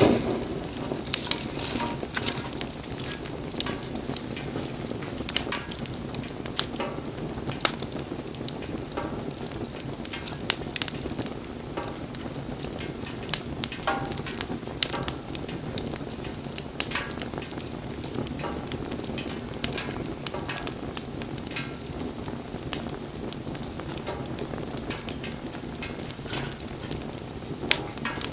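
Wood fire burning: a steady hiss with frequent sharp crackles and pops.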